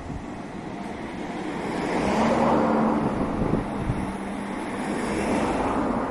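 A Nishitetsu electric train running past, its rumble and rushing noise swelling to a peak about two and a half seconds in and then slowly fading.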